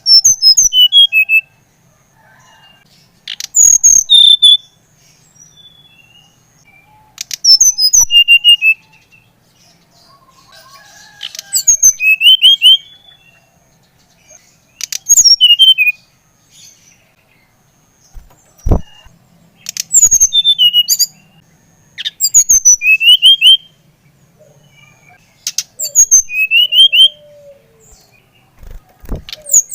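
Sikatan rimba dada coklat (SRDC) flycatcher singing: loud phrases of quick, high, sweeping whistles and chirps, repeated about every four seconds. There is a single sharp knock about two-thirds of the way through.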